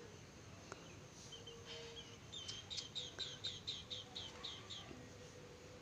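A bird calling: a quick series of about ten high, falling chirps, about four a second, starting about two and a half seconds in.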